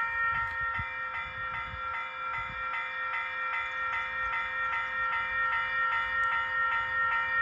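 Railroad grade-crossing warning bell dinging rapidly and evenly as a train approaches, a ringing metallic tone repeating about three times a second.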